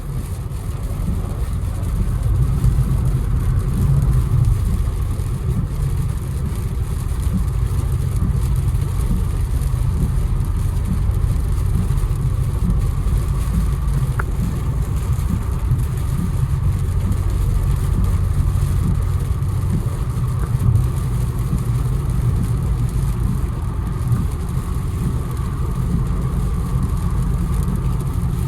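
Infiniti Q60's V6 engine and road noise heard from inside the car while driving, with the engine swelling under acceleration a few seconds in.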